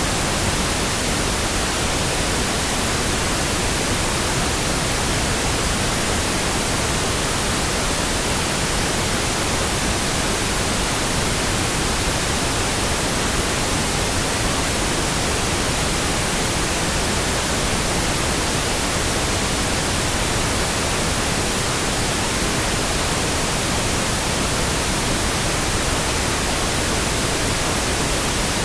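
Steady generated noise from a pink-noise track: an even hiss spread over every pitch, unchanging from start to finish.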